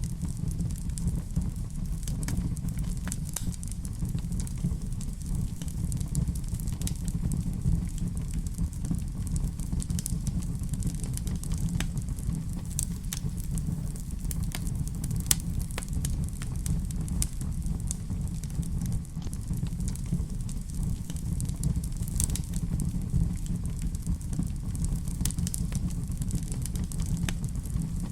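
Wood fire in a fireplace crackling, with frequent sharp pops over a steady low rumble of the flames.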